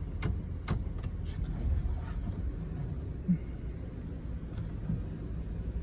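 Low steady rumble of a car running, with a few light clicks in the first second or so.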